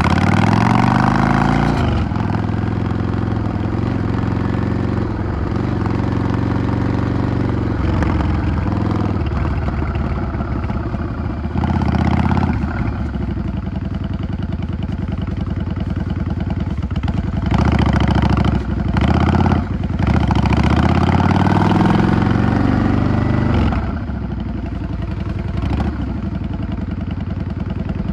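Yamaha XVS 650 V-Star's air-cooled V-twin engine running under way: it rises in pitch as it accelerates, breaks off briefly several times as gears change, climbs again later, then drops to a lower, quieter run near the end.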